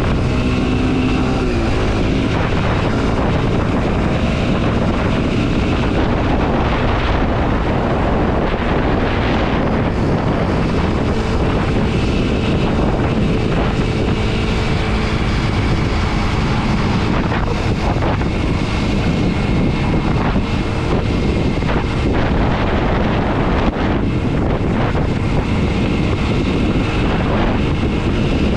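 Kawasaki KLX 230 SM's single-cylinder engine running under way, with heavy wind noise on the microphone. The engine pitch shifts near the start, then holds fairly steady.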